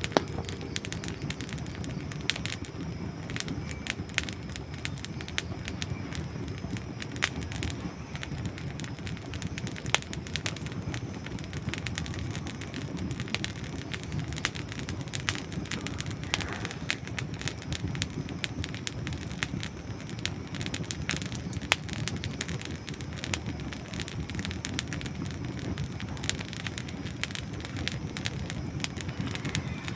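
Wood campfire burning with a steady low rush of flames and frequent sharp crackles and pops from the dry logs.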